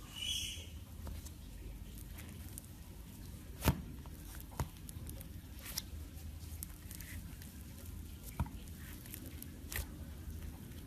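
Slime being handled and squished by hand, giving scattered small pops and clicks, a few of them sharper and louder than the rest.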